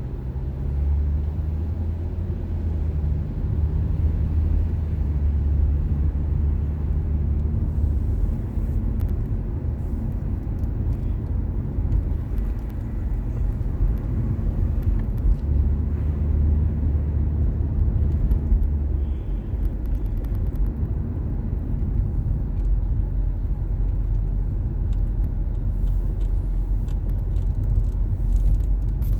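Car engine and road noise heard from inside the cabin while driving: a steady low drone that rises and falls slightly with engine speed.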